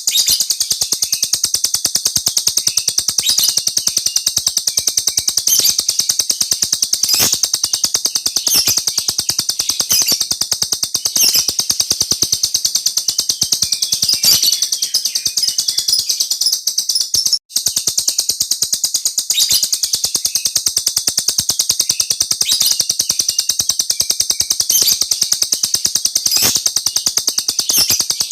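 Small bird singing one long, very rapid rolling trill of high chirps that barely pauses, with a brief break about 17 seconds in.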